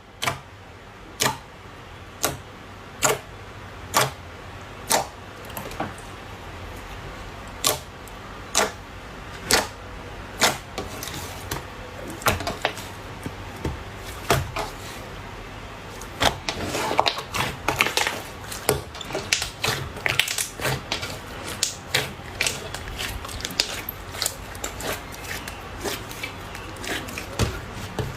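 Slime being pressed and poked by hand, making sharp clicking pops about once a second, which come faster and more crackly in the second half.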